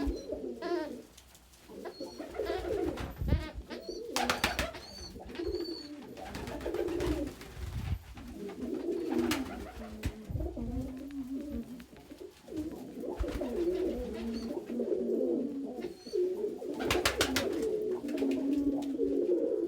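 Domestic pigeons cooing continuously in an indoor loft, several birds overlapping. A few brief sharp clatters sound about four, nine and seventeen seconds in.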